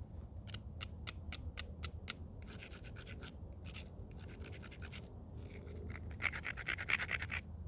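Stone edge being abraded to prepare a striking platform on a flint point: a quick run of light, sharp clicks, then three spells of gritty scratching strokes, the last the loudest.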